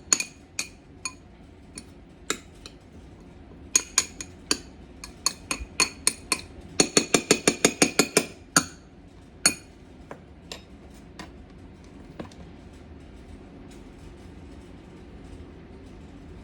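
Utensil clinking repeatedly against a glass bowl while stirring, each strike ringing at the same few pitches. The strikes are irregular at first, come in a quick run of about seven a second around seven seconds in, and die out after about ten seconds.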